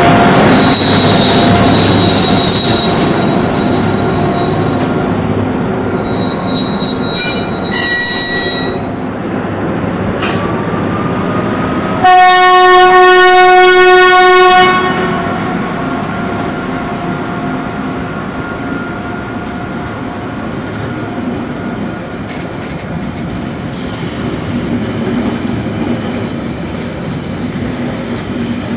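Electric-hauled passenger train departing: the locomotive hums and whines steadily, there are a few brief high tones, then the train horn gives one loud blast of about two and a half seconds midway. Afterwards the wheels roll and clack steadily as the coaches pass and draw away.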